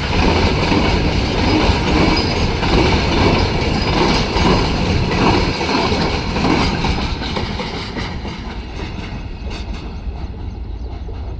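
Indian Railways train running past, wheels clattering on the rails. It fades from about two-thirds of the way through as the train moves away.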